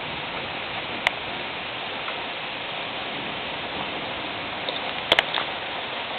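Steady rain falling, an even hiss. A single sharp click sounds about a second in, and a quick cluster of two or three clicks about five seconds in.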